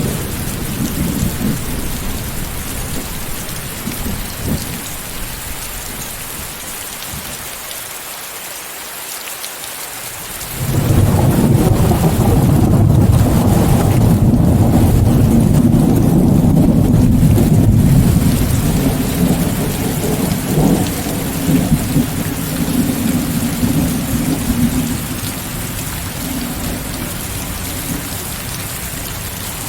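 Steady rain hiss under a thunderstorm, with a low roll of thunder dying away over the first several seconds. About a third of the way in, a loud new peal of thunder breaks in suddenly and rumbles on for over ten seconds before slowly fading back under the rain.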